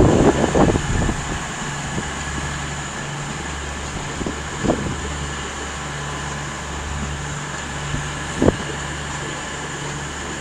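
Diesel train engine running steadily at low revs, a low hum with a faint pulsing tone above it. A noisy rush fades out in the first second, and two short knocks come about halfway through and near the end.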